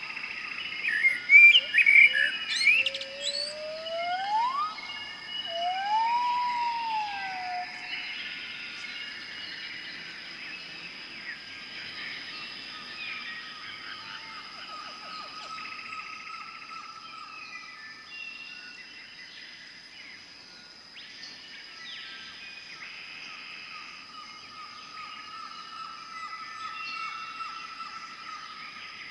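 Forest ambience with several birds calling. Loud sharp chirps come in the first few seconds, followed by whistled calls that rise and then arch down. After that, softer overlapping bird notes continue over a steady high-pitched drone.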